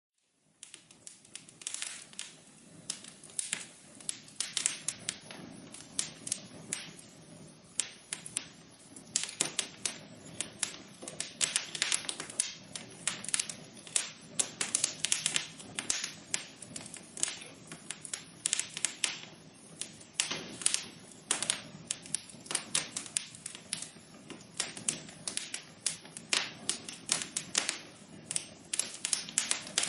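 Wood fire burning in a fireplace, crackling with dense, irregular pops and snaps over a soft low rush of flame. It starts about half a second in after a brief dropout.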